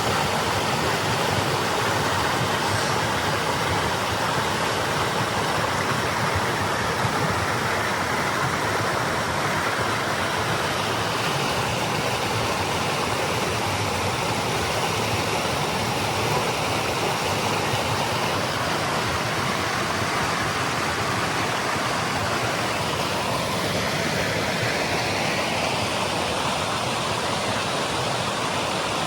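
Steady rush of a waterfall and stream, an even loud water noise that does not change.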